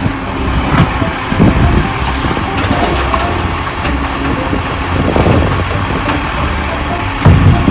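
Garbage truck engine idling, with a few short knocks and clunks, the loudest near the end.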